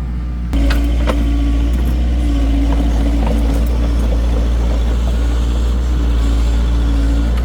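An engine running steadily with a constant low drone, stepping up suddenly in loudness about half a second in.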